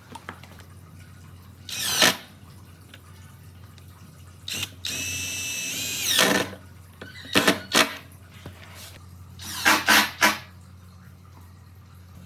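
Handheld power drill run in several short bursts. The longest is a steady whine of about a second and a half near the middle, and a few sharp knocks fall between the bursts.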